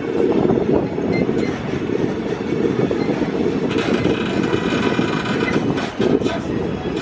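Disneyland tram rolling along, a steady low rumble of tyres and running gear, with a brighter hiss about four seconds in.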